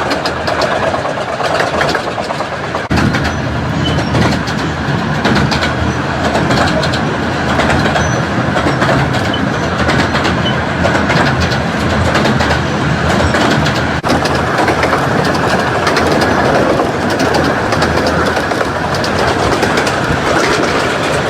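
15-inch-gauge miniature railway train running on the line, wheels clattering with rapid clicks over the rail joints. It grows louder and heavier about three seconds in, then runs on steadily.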